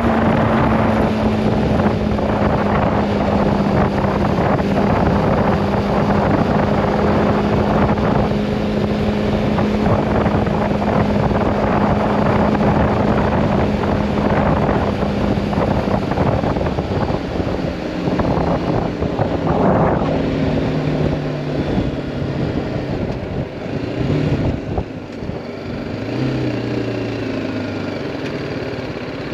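BMW G310R motorcycle's single-cylinder engine running under way, with wind rushing over the microphone. The engine note holds steady, then drops lower about two-thirds of the way in as the wind rush eases and the bike slows.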